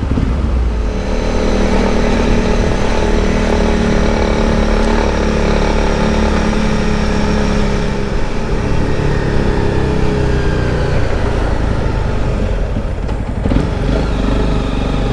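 Motorcycle engine running steadily under way, with a low wind rumble. The engine note eases and drops somewhat about eight to ten seconds in.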